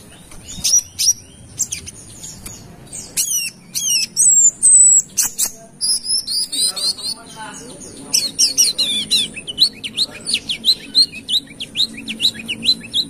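Brown-throated sunbird (kolibri kelapa) singing hard: quick, sharp, high-pitched chirps and downward-slurred notes, turning to a fast run of short repeated notes about eight seconds in.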